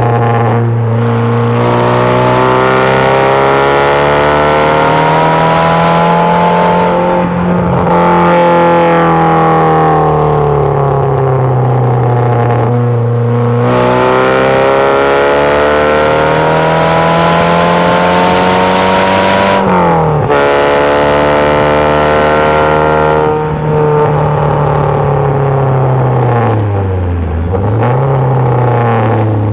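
MG Midget's swapped-in Ford 2.0 Zetec four-cylinder engine pulling hard around a race circuit, heard from the open cockpit. The engine note climbs and falls several times as the car accelerates and slows for corners, drops sharply about twenty seconds in, and dips low near the end before picking up again.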